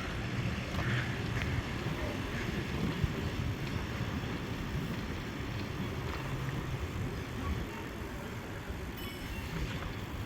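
Wind rushing over the microphone on a moving bicycle, with a steady low rumble from riding over the street and a few faint clicks.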